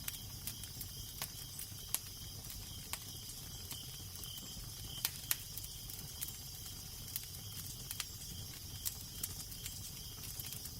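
Wood fire crackling, with irregular sharp pops, over a steady low rumble of wind.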